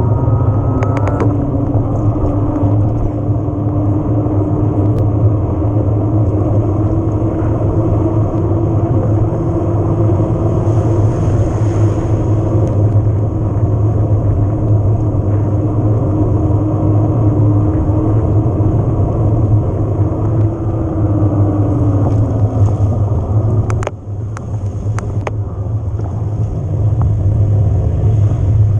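Steady rumble of wind and tyres on the camera microphone while riding an e-bike. A hum from the Yamaha PW-X mid-drive motor holds from about a second in, drifts a little up and then down in pitch, and stops a few seconds before the end, followed by a few sharp clicks.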